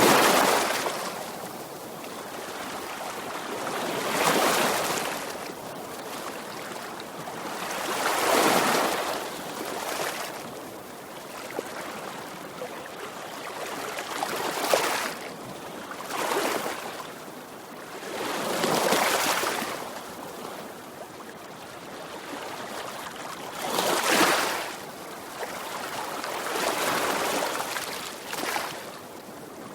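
Sea waves breaking and washing on a shore, each surge swelling and fading roughly every four to five seconds.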